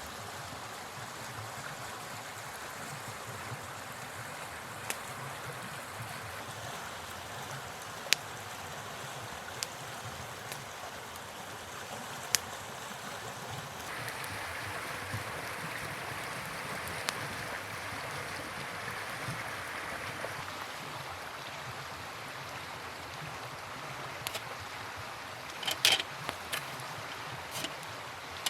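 Steady rushing of a flowing river, a little brighter for several seconds in the middle, with a few sharp snaps scattered through and a small cluster near the end.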